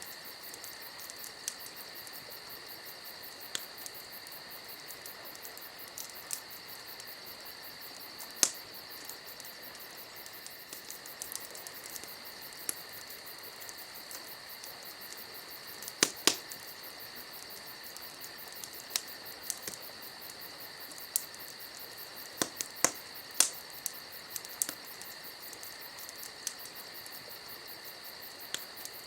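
Campfire crackling, with scattered sharp pops, the loudest about halfway through and again a few seconds later. Behind it is a steady, continuous chorus of crickets.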